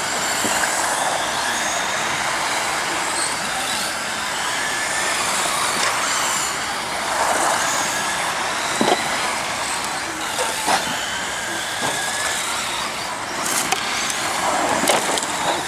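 Radio-controlled stadium trucks racing: a steady mix of high motor whines and tyre noise, with a few sharp knocks in the second half.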